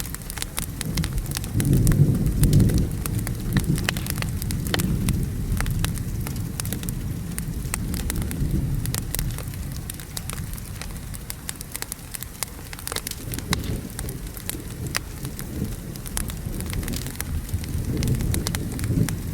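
Wood fire crackling with frequent sharp pops over steady rain, while low thunder rumbles about two seconds in and swells again near the end.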